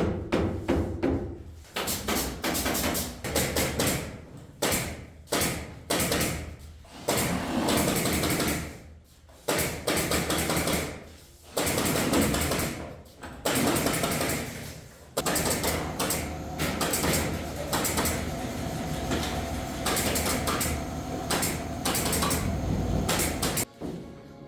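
Carpentry power tools running in repeated bursts a second or two long, with sharp knocks in between.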